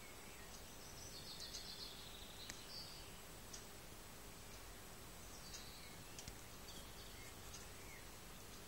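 Faint birds chirping over a steady background hiss, in two short bouts with a few soft clicks between.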